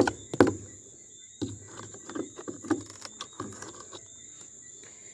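Hammer knocking on nails and wooden form boards: two sharp strikes near the start, the second the loudest, then a run of lighter knocks and scrapes as the hammer's claw is worked behind nails that won't come out.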